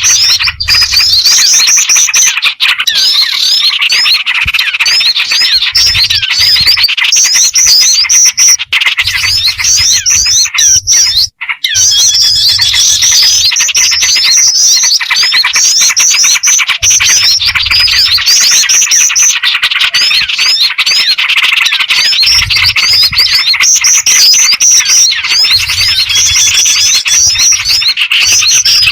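Bird-lure recording: a dense chorus of small birds, mixing black-winged flycatcher-shrike calls with other small birds and yellow-vented bulbul, calling continuously with high, rapid repeated chirps every second or two.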